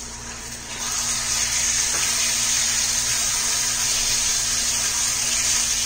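Raw chicken pieces going into a hot pan of oil and onion masala, setting off a loud, steady sizzle that starts suddenly about a second in.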